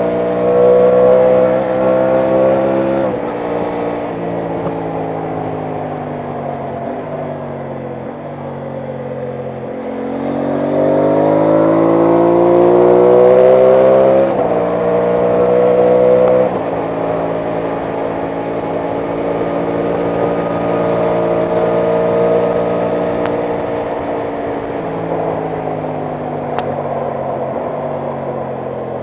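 Aprilia Tuono 660 Factory's parallel-twin engine running on the road. Its pitch steps down a few seconds in, climbs steadily as the bike accelerates about ten seconds in, drops suddenly at a gear change about sixteen seconds in, then holds fairly steady.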